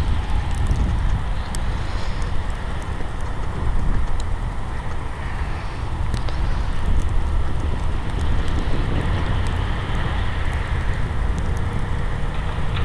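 Storm wind buffeting the microphone in a heavy snowstorm: a steady, uneven low rumble with a hiss over it.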